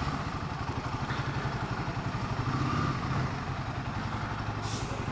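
Royal Enfield Himalayan 450's single-cylinder engine running steadily at low revs with an even, rapid exhaust pulse, with a brief hiss near the end.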